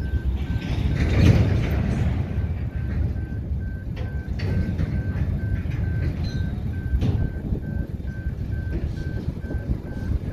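Empty sugar hopper wagons rolling past on the track: a steady low rumble with a few sharp clacks from the wheels, about four and seven seconds in.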